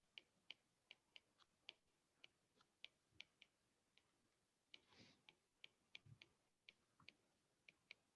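Near silence with faint, irregular ticks and taps, a few a second, of writing on a board.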